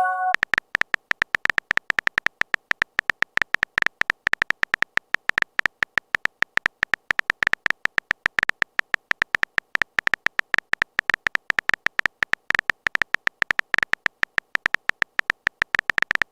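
Phone keyboard typing sound effect: a rapid, irregular run of short, identical clicks with a light ringing tone, several a second.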